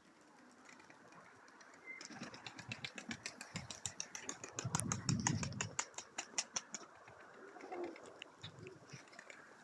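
Pigeons' wings clattering in a rapid run of flaps, about five a second, building and fading over several seconds, with a low rush of wind about halfway through.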